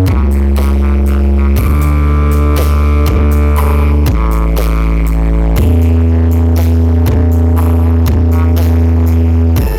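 Electronic DJ remix played loud through a large sound system, with deep, long bass notes that change pitch every second or so and glide into each new note, under a beat and synth lines.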